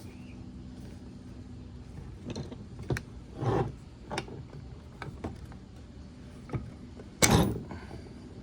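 Metal parts of a two-stroke dirt bike's water pump being handled as the impeller shaft is worked out through the back of the case: scattered light clicks and scrapes, then one louder knock near the end, over a steady low hum.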